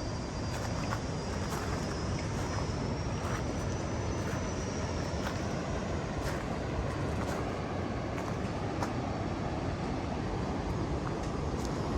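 Steady low rumble of ocean surf from the open Indian Ocean, with faint ticks scattered through it and a thin high whine that drifts slightly in pitch.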